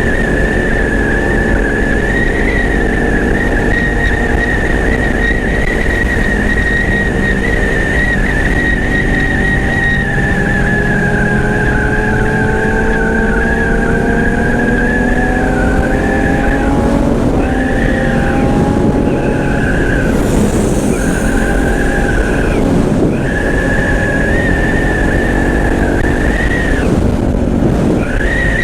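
Motorcycle engine running at road speed under heavy wind rush on the microphone. Its pitch climbs slowly as it pulls, then dips and returns several times in the second half.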